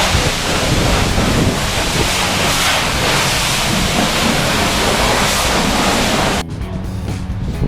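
Pressure-washer jet blasting water over a car's bodywork: a loud, steady rushing hiss. About six seconds in it cuts off suddenly and background music begins.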